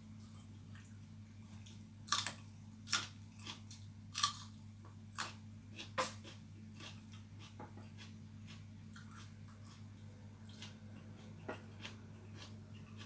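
A person chewing and biting into pigeon, with a run of sharp crunches about two to six seconds in and a few fainter ones later. A steady low electrical hum runs underneath.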